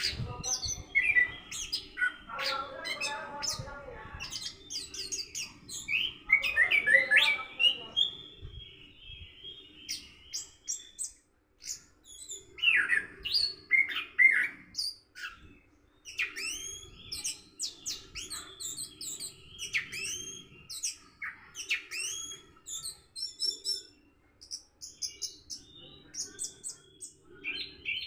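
Orange-headed thrush singing a long, varied run of quick chirps and whistled phrases, pausing briefly about eleven seconds in. A low steady hum sits underneath.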